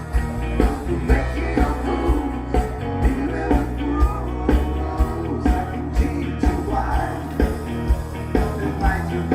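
Rock song with a singing voice, guitar and a steady drum beat of about two hits a second.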